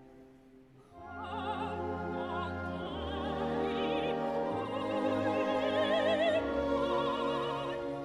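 Classical music: operatic singing with wide vibrato over an orchestral accompaniment. It is quiet for the first second, then the voice and orchestra come in fuller.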